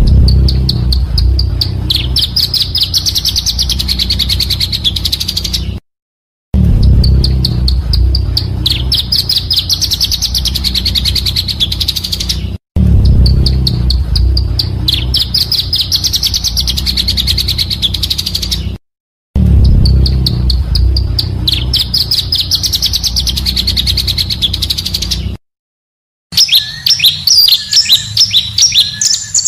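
Looped recording of a pancawarna bird's song: rapid, high trilling chirps, the same phrase of about six seconds repeated four times with short silent gaps, over a low hum. Near the end, a different, faster twittering phrase.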